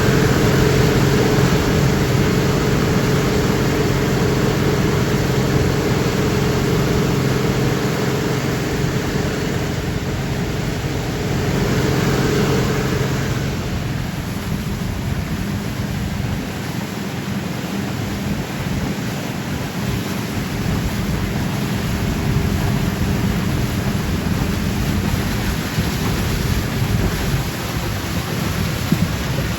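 Tour boat's motor running steadily under a loud rush of wind and water noise. The motor's hum fades out about halfway through, leaving mostly the rushing wind and water.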